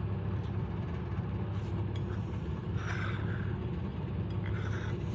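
A steady low rumble, with a couple of brief faint rustling noises partway through.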